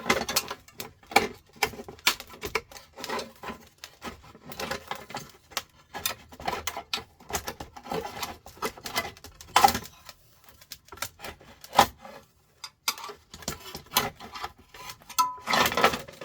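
Irregular scraping, rubbing and clicking of a screwdriver working on the metal parts of a sandwich maker being taken apart for scrap.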